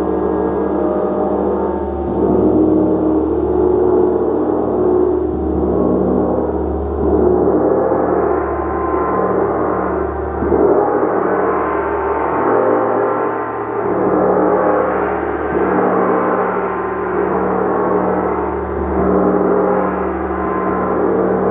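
Gong played continuously: a dense, sustained wash of many overlapping ringing tones that swells and eases every couple of seconds.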